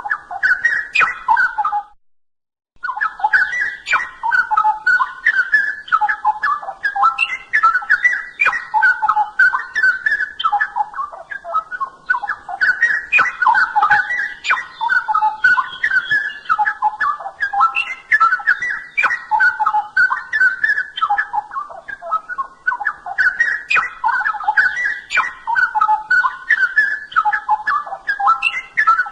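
Straw-headed bulbul (cucak rowo) singing continuously in loud, rich warbling phrases. The song breaks off briefly about two seconds in, then runs on.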